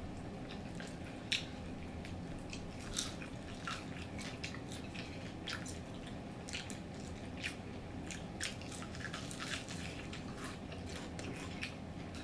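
Close-miked chewing and biting into crispy fried food, with irregular crunches and wet smacking clicks scattered throughout.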